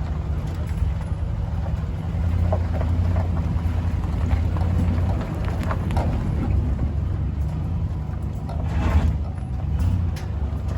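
Tractor engine running steadily, with scattered knocks and clanks over it.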